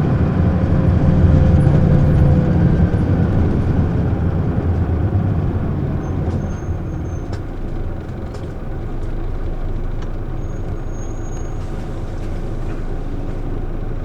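Diesel engine of an Isuzu Erga city bus heard from inside the cabin, running under way and then dropping to a quieter, steadier idle about seven seconds in as the bus pulls up at a stop, with a few light clicks and two brief high thin tones.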